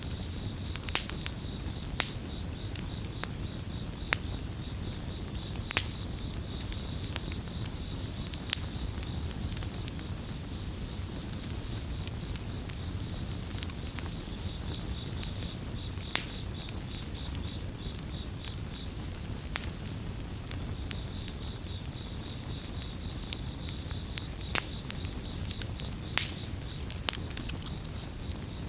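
Campfire crackling, with irregular sharp pops and snaps over a low steady rumble of burning wood. Crickets chirp in a fast, even high-pitched pulse, which drops out for a stretch in the middle and returns later.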